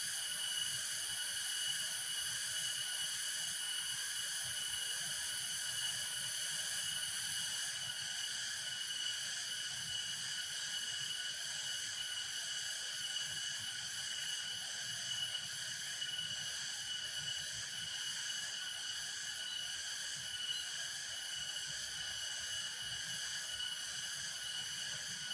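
Steady chorus of insects chirring at several high pitches at once, with a fast pulsing trill at the top, over a faint low rush.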